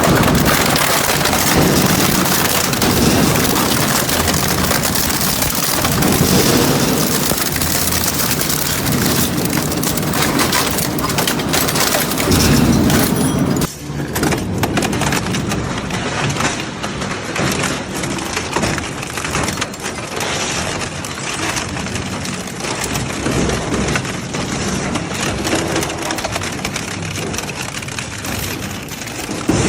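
Industrial metal shredder crunching through iron scrap: a dense, continuous run of cracks, bangs and grinding over the machine's running. About 14 s in the sound breaks off briefly and resumes less bright.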